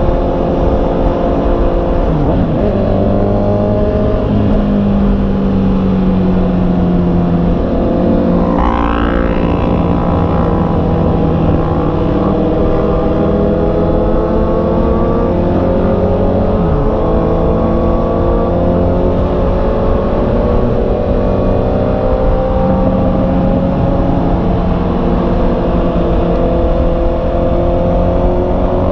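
Honda CB650R's inline-four engine under way: its pitch climbs slowly through long pulls and drops at several gear changes, with a brief sharp rev about nine seconds in. A steady low rumble runs underneath.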